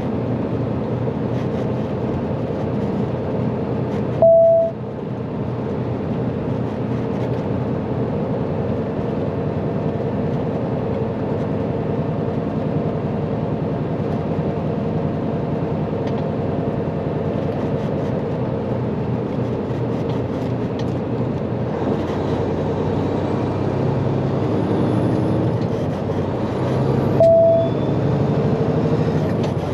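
Semi truck's diesel engine running steadily while driving, with a short, loud single-pitch beep about four seconds in and again near the end.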